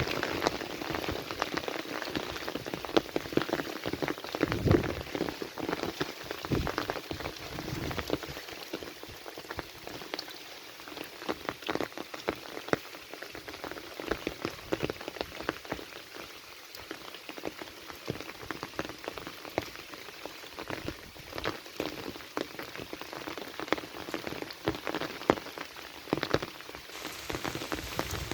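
Rain falling steadily: an even hiss thick with the separate ticks of individual drops striking a surface.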